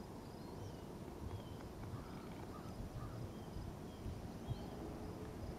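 Birds chirping, short high notes and slurred whistles repeating every second or so, over a low steady rumble.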